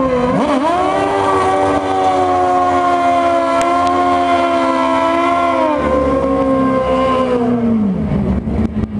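Drag-racing motorcycle engines revving hard. The pitch climbs sharply just after the start, holds high and steady for about five seconds, then falls back toward idle near the end.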